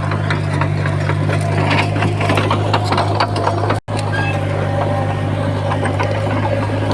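Heavy diesel earthmoving machinery, such as a bulldozer or dump truck, running steadily with a deep engine hum and continuous clanking and rattling. The sound drops out completely for an instant a little before the middle.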